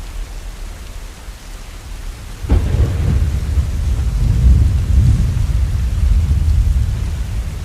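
Steady rain falling, with a thunderclap about two and a half seconds in: a sharp crack that rolls into a deep rumble and slowly dies away.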